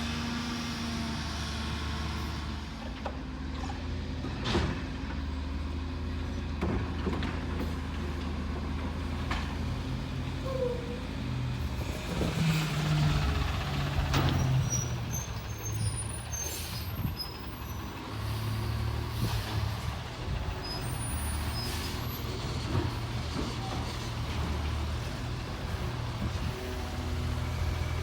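Refuse truck's diesel engine running with a steady low drone, broken several times by sharp knocks and hissing bursts, the busiest stretch about halfway through.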